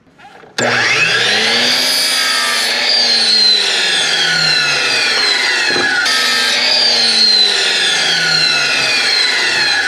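Electric power saw cutting 2x4 lumber to length. The motor whine sags in pitch under the load, jumps back up with a knock about six seconds in, then sags again through a second stretch of cutting.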